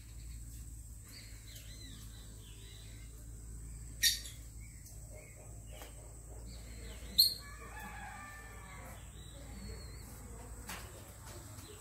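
Birds calling around a parrot aviary: two short, loud, sharp squawks, about four and seven seconds in, followed by a drawn-out call of several notes, with small high chirps throughout.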